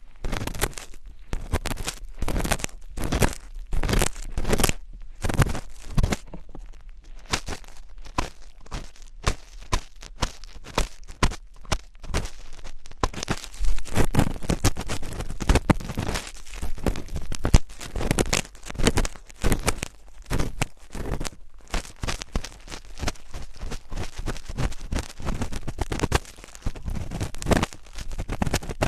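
Close-miked ASMR scratching and rustling: a quick, irregular run of crackly strokes that packs more densely from about halfway through.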